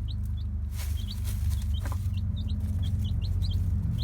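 Young chicks peeping: many short, high, rising peeps, several a second, over a steady low hum. A brief scratchy rustle just under a second in.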